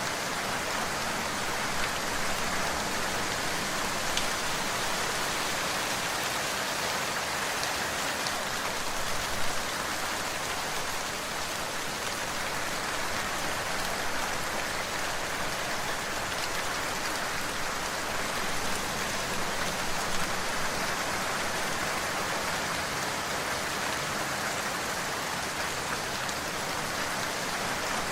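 Steady rain falling, with a few individual drops ticking out of the even hiss.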